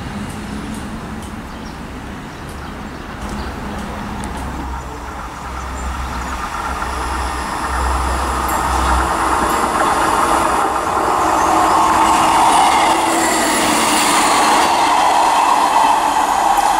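A Class 158 diesel multiple unit approaching and running into the station, growing steadily louder, with wheels running on the rails.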